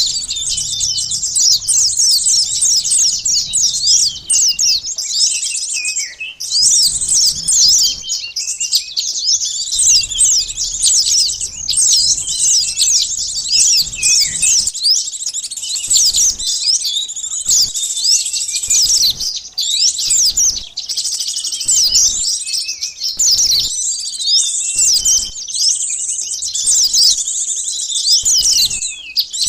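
Noisy chorus of many small birds, such as sunbirds, chirping and twittering in quick, high-pitched, overlapping sweeps without a pause, as played for a bird lure.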